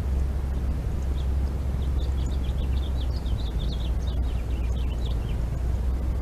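Small birds chirping in quick runs of short high notes, busiest in the middle of the stretch, over a steady low rumble.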